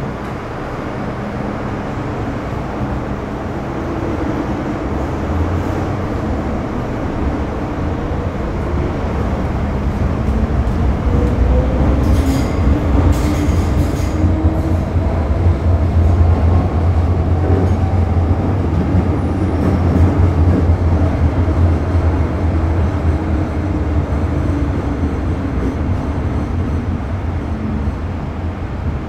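A vehicle's steady low rumble with faint gliding tones above it, growing louder toward the middle and easing off near the end.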